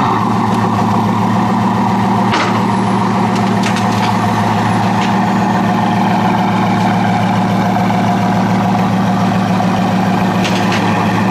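Bugatti Veyron's quad-turbo W16 engine idling steadily.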